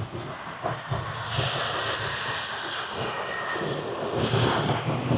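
Street traffic passing: a steady rush of engines and tyres that swells about a second and a half in and again near the end.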